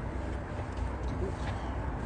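Helle knife shaving hard cherry wood while carving a kuksa: a few scraping strokes over a steady rumble.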